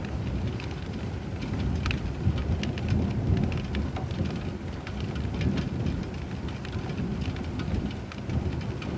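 Steady rain: many sharp ticks of individual drops hitting a surface over a deep, continuous low rumble of thunder.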